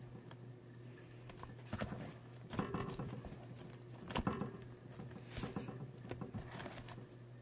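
Irregular soft clicks and taps of hands working slime in a bowl, with a few louder clusters of taps in the middle, over a steady low hum.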